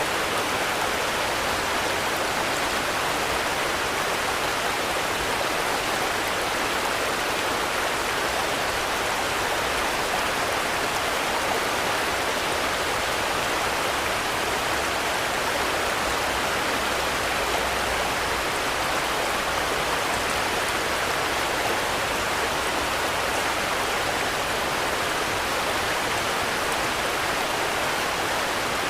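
Steady rain falling: a dense, even hiss with no thunder or other sudden sounds.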